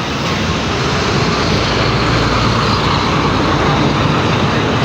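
Road traffic noise from heavy trucks on the road: a loud, steady rush of engine and tyre noise, swelling slightly about halfway through as a vehicle passes.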